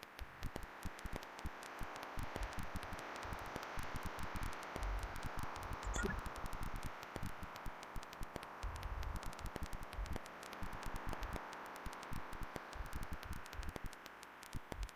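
Crackling static over a steady hiss, with dense clicks throughout and a few brief low thumps.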